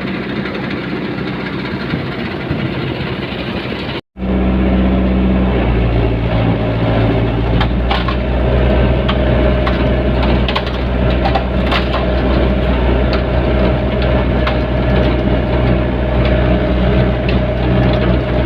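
Hyundai backhoe's diesel engine running under load, with bamboo stalks cracking and snapping as the machine pulls them out. The sound drops out for an instant about four seconds in and comes back louder.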